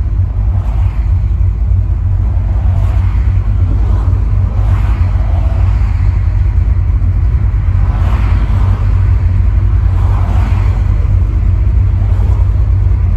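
V8 engine and exhaust of a Chevy LUV pickup running at a steady cruise, a loud continuous low drone with road and wind noise over it.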